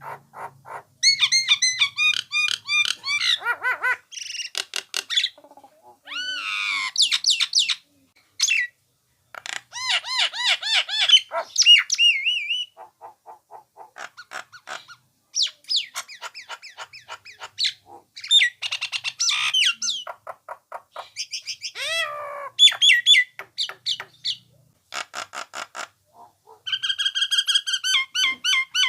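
Nias hill myna calling: a varied string of ringing whistles, squawks and fast clicking trills, some gliding in pitch, delivered in bursts with short pauses between them.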